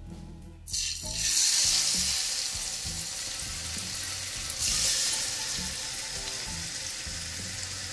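Raw chicken breasts laid into hot oil in a frying pan: a loud sizzle starts suddenly about a second in, surges again when the second breast goes in near the middle, then eases to a steady frying sizzle.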